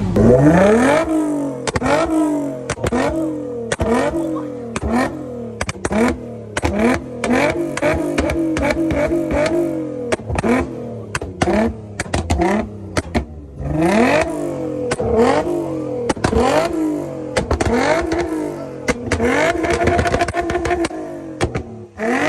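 A car engine revved hard again and again, its pitch climbing and dropping back many times in a row, with sharp cracks and pops between the revs.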